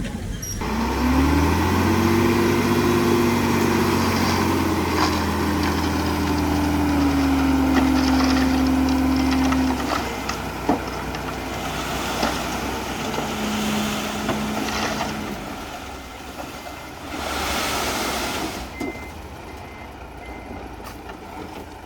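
A heavy construction machine's diesel engine revving up about a second in and running hard for several seconds, then dropping back to quieter, rougher running with scattered clanks and knocks.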